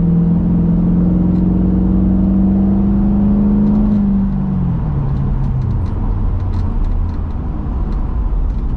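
Chevrolet Camaro V8 engine pulling hard, its note climbing steadily for about four seconds. It then drops sharply as the revs fall, leaving a lower, rougher rumble with road noise.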